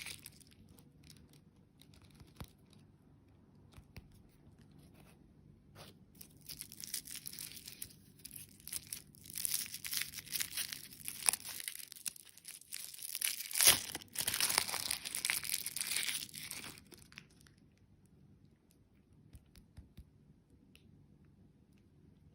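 Candy packaging being crinkled and torn open by hand, in bouts of crackling through the middle with one sharp snap that is the loudest moment; quieter before and after.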